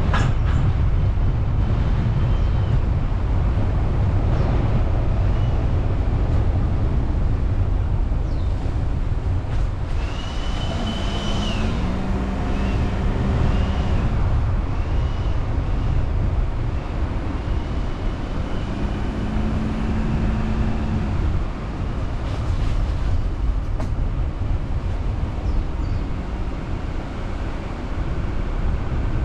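A car driving, with a steady low rumble of road and engine noise. Faint whining tones rise and fall over it about a third of the way in, and again just past the middle.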